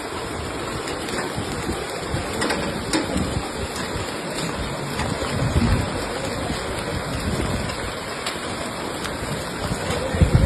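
Heavy rain falling, with wind gusting on the microphone and a few sharp ticks of drops striking.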